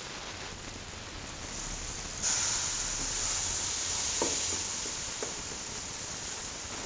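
Ground red chili paste hitting hot oil in a stainless steel pot: a sudden loud sizzle about two seconds in that slowly dies down, with a few clinks of the spatula against the pot.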